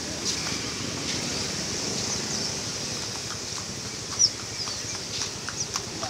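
Caged songbirds giving short, high chirps and whistles over a steady high-pitched din of many birds, with a sharp tap about four seconds in.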